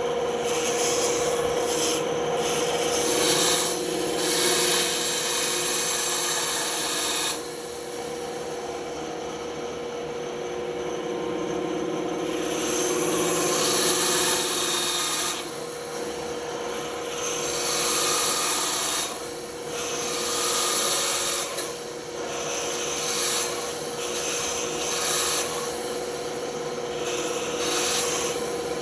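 Band saw running with a steady hum, its blade cutting a workpiece in spells of a few seconds as the piece is fed in at slight angles around a curve, the cutting noise easing off between passes.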